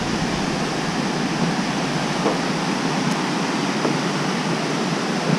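Steady rushing of a large waterfall, the roar of falling water filling the whole sound.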